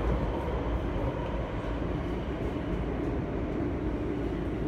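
Passenger train running, heard inside the carriage: a steady rumble of wheels and running gear.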